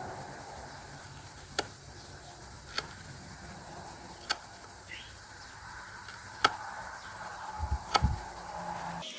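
Hand woodworking on a wooden bowl: sharp knocks of a tool on wood, about five of them, one to two seconds apart, with a heavier double thump near the end, over a low steady hum.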